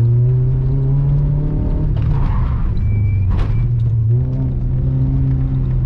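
2009 Dacia Logan's 1.6 16-valve four-cylinder with a de-catted custom exhaust, heard from inside the cabin under hard acceleration. Its pitch climbs, falls about two seconds in, and climbs again. A single sharp knock comes about three and a half seconds in.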